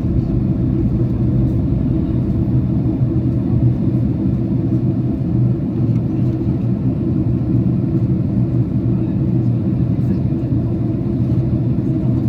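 Boeing 767 cabin noise on approach: a steady low rumble of the engines and airflow, heard inside the passenger cabin.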